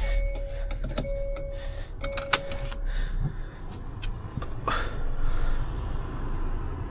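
Inside a Hyundai Verna with the engine running at a low steady rumble, a car warning chime beeps about once a second and stops a little under three seconds in, around a sharp click; scattered clicks and a brief swish follow.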